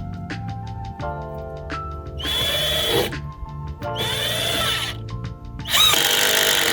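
Power drill driving 3-inch deck screws into wood in three bursts, each spinning up to a steady whine, the last one longer. Background music with held notes and a ticking beat underneath.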